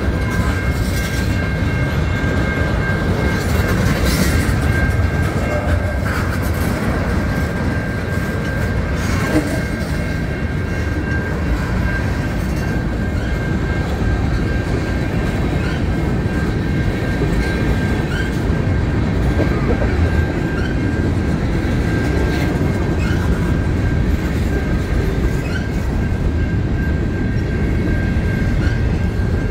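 Freight cars of a CN mixed freight train rolling past at a steady pace: a continuous heavy rumble with light clicking of wheels over the rails and a steady high-pitched tone held throughout.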